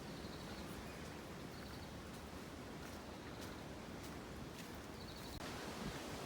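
Outdoor woodland ambience: a steady hiss of wind and leaves, with three faint, brief high-pitched chirps. The background noise changes abruptly near the end.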